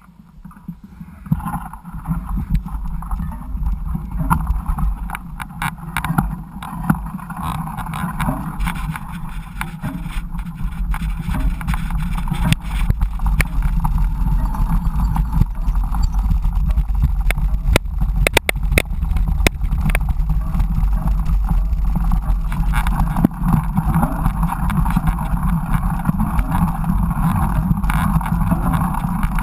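Mountain bike riding a dirt trail, heard from a camera mounted on the bike or rider: constant wind rumble on the microphone with many sharp rattling clicks from the tyres and bike. It starts quiet and grows louder over the first few seconds.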